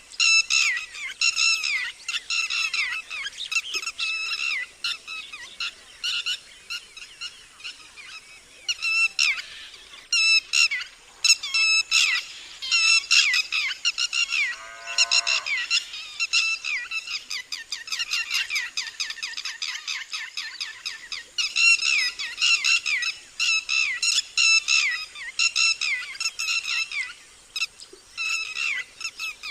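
Red-wattled lapwing giving its loud alarm call: sharp, shrill notes repeated in rapid series with short pauses. A lower call glides down in pitch about halfway through.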